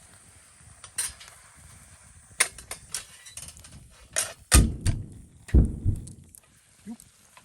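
Irregular clicks and knocks of cooking utensils against a hot sandwich maker pan while pork and kimchi are stirred, with two heavy thumps about halfway through.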